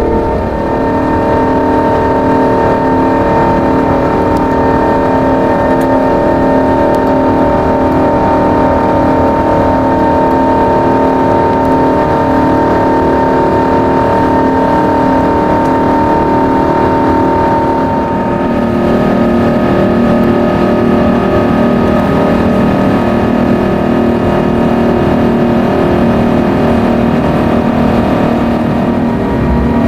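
Jet airliner engines running at high power: a loud, steady roar carrying several steady whining tones, whose pitches shift about two-thirds of the way through.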